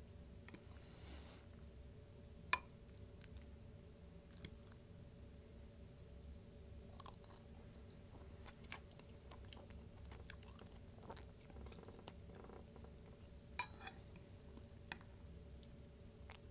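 Close-miked chewing of a Mexican chicken bowl: soft, wet mouth sounds with sharp clicks scattered through, the loudest about two and a half seconds in.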